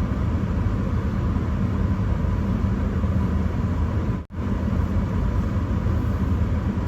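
Steady noise inside a moving car's cabin in a blizzard: road and engine rumble mixed with wind and the rush of the heater fan. The sound drops out for an instant a little past four seconds in.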